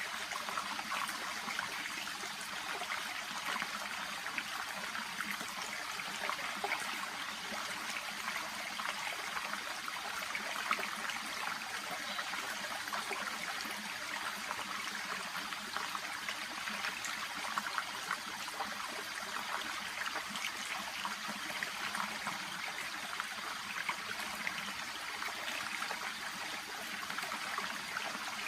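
Shallow brook babbling and trickling over and around water plants, a steady splashing with many small bubbling flicks.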